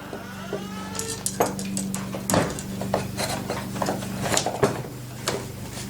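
Irregular metallic clinks and taps of a chainsaw chain and guide bar being handled while fitted onto a Husqvarna 390 XP, over a steady low hum.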